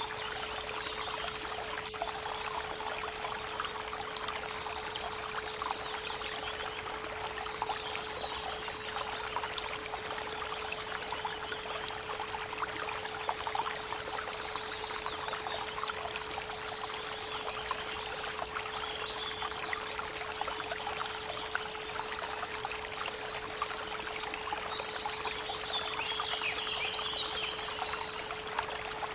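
Creek water babbling steadily, with birds chirping briefly several times above it, all over a steady pure tone at 432 Hz.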